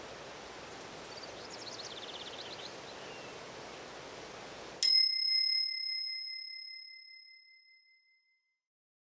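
Forest ambience with a short bird trill, cut off abruptly about halfway through by a single timer ding: one bright bell tone that rings out and fades away over about three seconds, marking the end of a timed interval.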